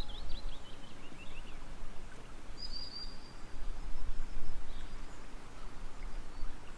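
Steady background noise with a low rumble, and a few bird chirps: a quick falling run of chirps at the start and a brief high call about three seconds in.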